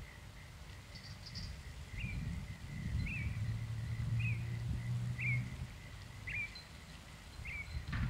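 Outdoor ambience: a bird repeats a short chirp about once a second, six times, over a low rumble of wind on the microphone. A faint low hum runs for a couple of seconds in the middle.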